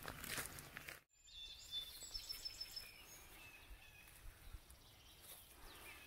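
Faint birdsong, several high whistled notes and short calls, over quiet outdoor background noise. The sound drops out briefly about a second in.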